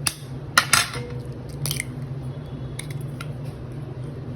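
An egg cracked against the rim of a bowl and its shell pulled apart, giving a few sharp clicks and taps over a steady low hum.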